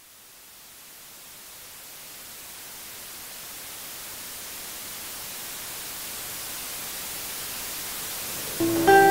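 A steady hiss of noise fades in from silence and grows gradually louder. Near the end, plucked guitar music begins.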